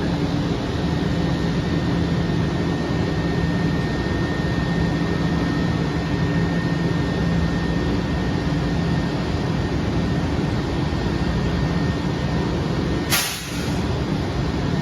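Washington Metro train running at the station: a steady rumble with a constant hum, and a brief sharp hiss of air near the end.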